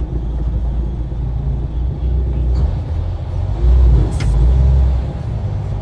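Heavy truck's engine and road rumble heard inside the cab, a steady deep drone that swells louder about three and a half seconds in. A single sharp click sounds a little after four seconds.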